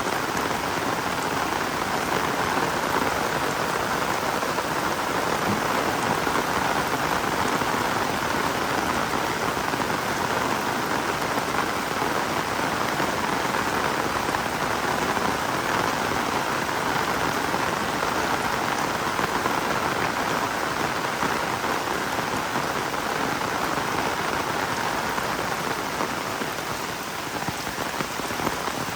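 Heavy rain falling steadily, a dense even hiss of drops on the ground.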